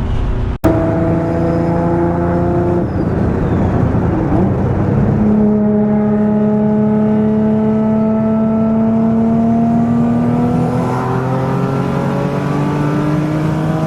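Big-turbo 2004 Infiniti G35 coupe's engine pulling hard under load, its note steady at first, then breaking up for a couple of seconds and climbing slowly in pitch through a long gear.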